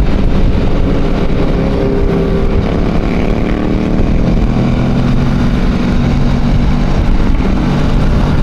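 Motorcycle engines running under way, the engine note shifting in pitch as the throttle changes.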